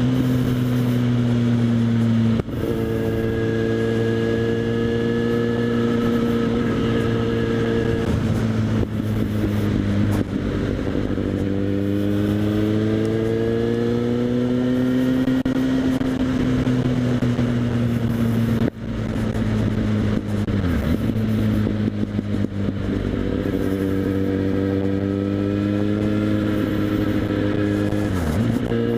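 Kawasaki Z800's inline-four engine running through a LeoVince SBK aftermarket exhaust on the move, heard from a helmet chin mount. The engine note slowly rises and falls with the throttle, and cuts out briefly about 2.5 and 19 seconds in.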